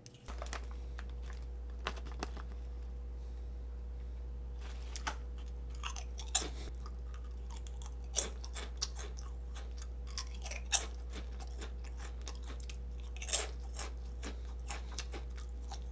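Crunchy cone-shaped corn chips being bitten off the fingertips and chewed, a run of irregular sharp crunches with a few louder bites. A steady low hum runs underneath.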